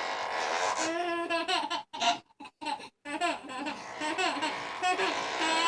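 A high-pitched voice making long, wavering vocal sounds, broken by short breaks about two to three seconds in.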